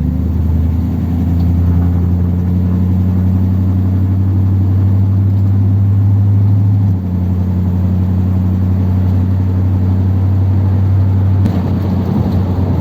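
Old Ford Thunderbird engine heard from the cabin while driving, the revs climbing as it pulls away, then running steadily. The engine note drops about seven seconds in and changes again near the end, as with a gear change or easing off the throttle.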